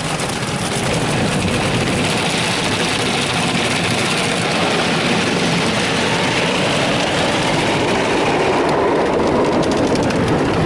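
Ryko Softgloss Maxx automatic car wash working over the truck, a steady loud rush of brushes and water against the body, heard from inside the cab.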